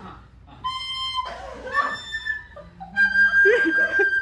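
Flute playing three long held notes: a lower one first, then two higher ones, with the last held longest.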